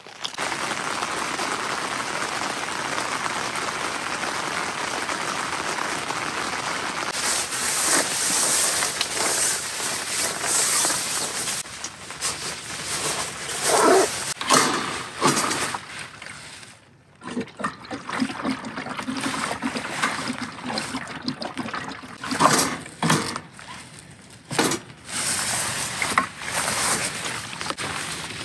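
Steady rain falling on the tent, then a plastic rain poncho rustling and crinkling in irregular bursts as it is pulled on and worn out into the rain.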